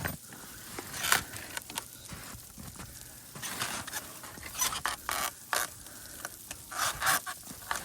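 Footsteps crunching through deep snow, slow and uneven, about one crunch every second or so.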